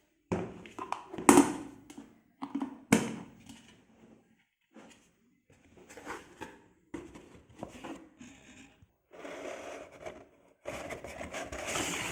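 Objects being handled: irregular knocks, clicks and rustling, with two sharp knocks in the first few seconds and a longer rustling stretch near the end.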